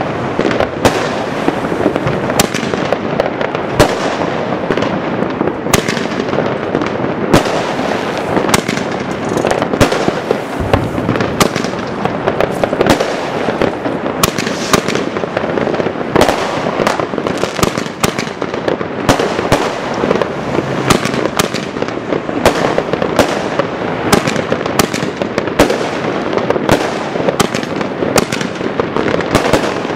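Helios Excalibur 36-shot fireworks cake firing: sharp bangs, irregular and roughly one or two a second, over a continuous dense crackling hiss.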